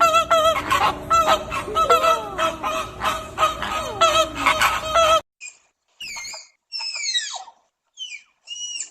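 Geese honking, many overlapping calls from a flock, cutting off abruptly about five seconds in. A bird's high, falling calls follow, short and separated by gaps.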